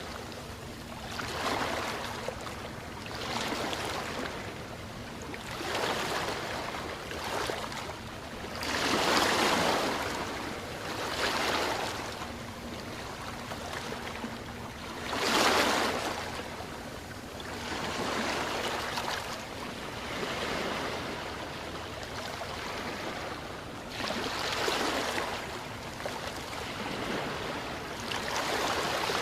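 Waves washing in on a shore, each rush of water swelling and fading every two to three seconds, with a faint steady hum underneath.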